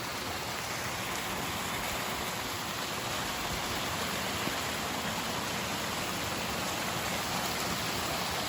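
Small hillside waterfall at low flow, water trickling and splashing down the rocks in a steady, even rush.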